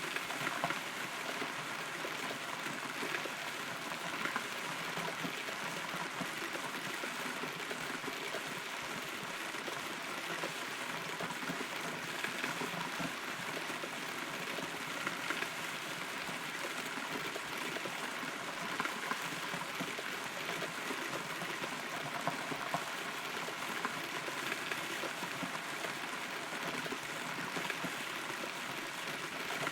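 Steady rain heard from inside a hollow rotten tree trunk: many small drop hits over an even hiss.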